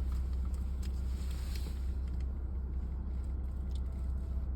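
Steady low rumble of an idling car heard inside its cabin, with a few faint clicks and a brief rustle over it.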